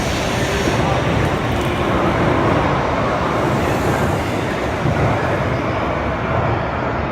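Shinkansen bullet train moving alongside the platform: a loud, steady noise of wheels and air whose high hiss fades from about three seconds in.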